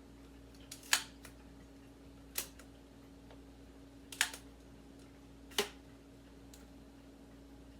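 Four sharp clicks and knocks, a second or two apart, from the parts of a Miele S 168 vacuum being worked by hand, as a part that should slide all the way down is pushed and stops short.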